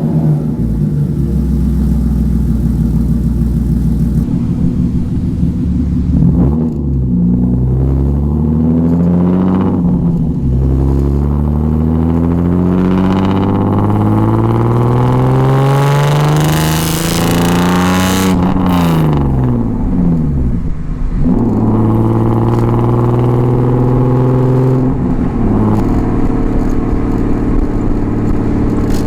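BMW M50B25 inline-six breathing through stainless headers and a 3-inch stainless exhaust with the mid silencer removed, a near straight pipe, heard at the tailpipe: the revs climb, drop at a gear change about ten seconds in, then climb in one long pull to high revs before falling away and settling into steady running. Very loud.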